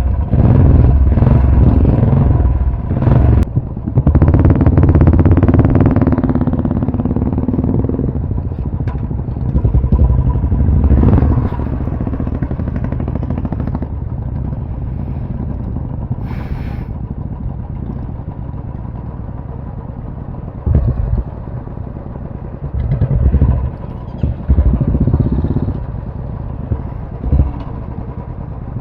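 Royal Enfield motorcycle engines running during a group ride. They are loudest over the first several seconds and again around ten seconds in, with several short surges near the end.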